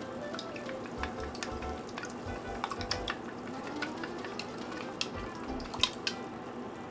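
Cooking in a pan: a utensil clicking and scraping as food is stirred, with a light sizzle underneath and sharp knocks now and then, the loudest near the end.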